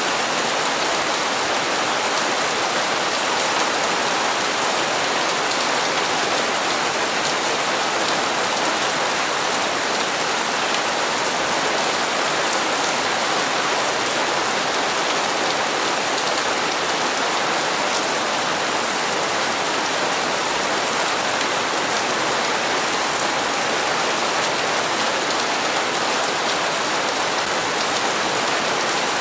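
Steady rain falling on hard surfaces, an even unbroken patter with no distinct drops standing out.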